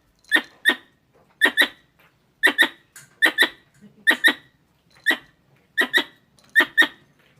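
Squirrel calls: sharp, squeaky chirps given mostly in quick pairs, the pairs repeating about once a second, about eight times.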